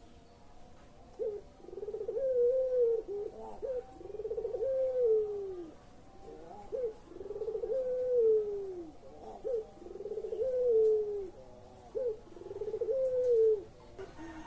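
Puter pelung dove cooing: five phrases about two and a half seconds apart, each a short note followed by a long, low coo that rises and then falls away.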